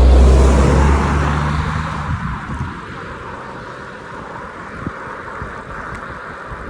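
A motor vehicle passes close by, its engine loudest right at the start, then dropping in pitch and fading over the next two to three seconds, leaving steady wind noise.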